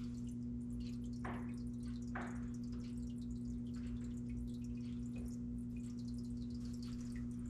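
A steady low electrical hum, one even tone with a fainter lower one beneath it. Two brief soft scrapes come a second or two in.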